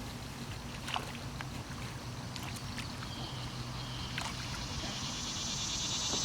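A few scattered light knocks and water sounds from a kayak, over a steady low hum. A high, insect-like drone rises in the background near the end.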